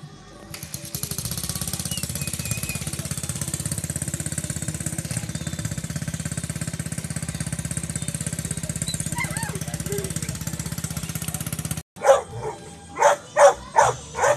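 Two-stroke Yamaha DT trail-bike engine running steadily with a fast, even putter. It stops at a cut near the end, and a run of short, loud, sharp bursts follows.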